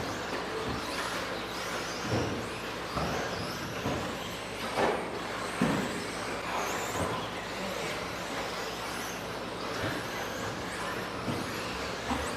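Several electric RC stadium trucks with 13.5-turn brushless motors racing: overlapping high motor whines rising and falling as they accelerate and brake, over steady tyre and track noise, with a couple of sharper knocks about five seconds in.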